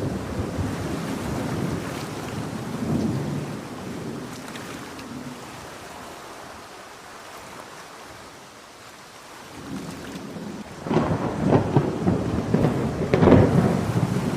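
Thunderstorm with heavy rain: a roll of thunder fades away over the first half, then a fresh peal of thunder breaks in about ten seconds in, crackling and rumbling loudly to the end.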